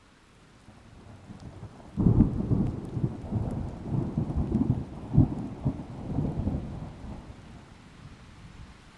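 Thunder breaking suddenly about two seconds in, then rumbling with several low cracks for about five seconds before fading, over rain.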